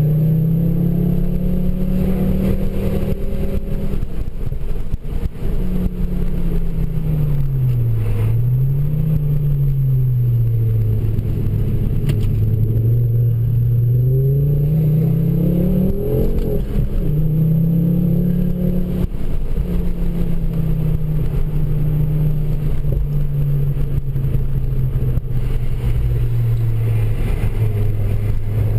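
Ford Focus RS MkII's turbocharged 2.5-litre five-cylinder engine with a Milltek exhaust, heard from inside the cabin while the car is driven hard. The revs climb and drop over and over, under a low road rumble.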